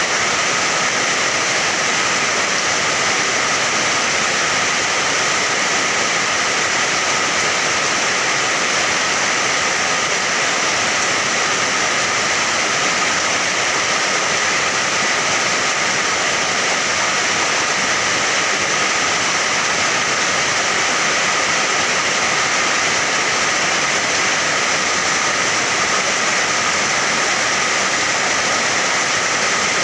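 Steady, heavy rain: a loud, even hiss of falling water that never lets up or changes.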